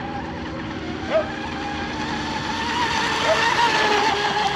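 RC hydroplane's 3660 brushless water-cooled electric motor and propeller running at high throttle across the water as a steady whine. It grows louder in the second half and eases off near the end.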